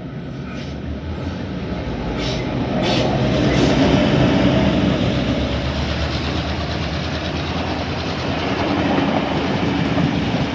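Diesel locomotive 42101 passing, its engine noise swelling to a peak about four seconds in. Its heritage carriages then roll by, with steady wheel-on-rail rumble and clicks.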